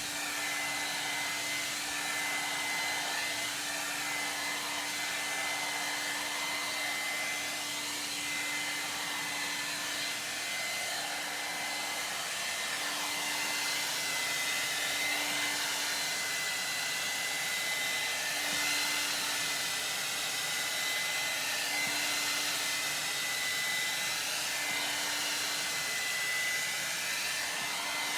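1800-watt ionic hair dryer running continuously while blow-drying hair: a steady rush of air with a thin high whine, and a lower hum that fades in and out several times.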